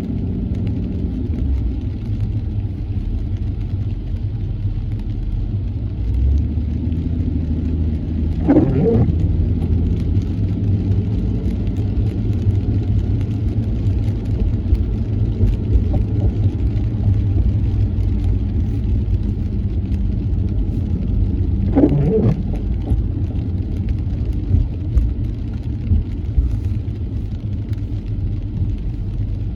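Steady low rumble of a car's engine and tyres on a wet road, heard from inside the cabin while driving. Two brief pitched sweeping sounds stand out, one about nine seconds in and another about thirteen seconds later.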